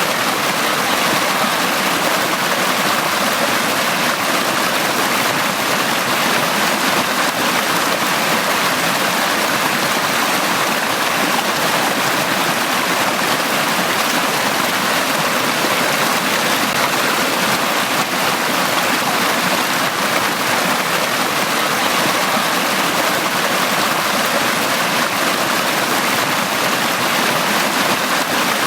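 Valley stream flowing, a steady, even rush of water with no changes.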